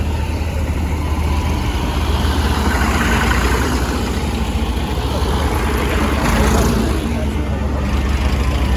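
Diesel engines of modern tractors passing in a line: a deep steady engine rumble, with louder swells as tractors go by about three and six and a half seconds in.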